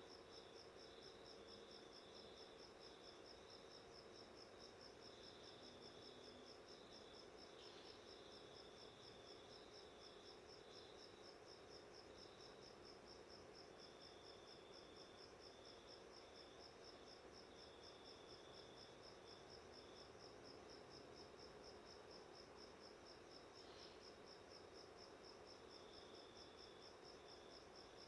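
Faint insect chirping, a rapid, even pulse kept up without a break, over a low steady hum.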